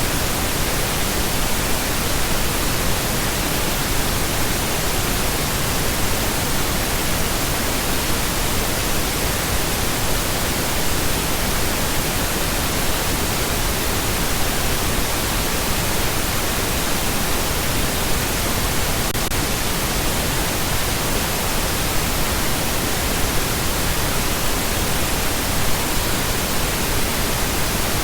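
Continuous pink noise: a steady, even hiss spread across all pitches, with no changes or breaks.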